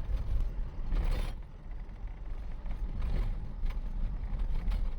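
Loaded truck on the move: steady low engine and road rumble, with brief rushes of noise about one and three seconds in.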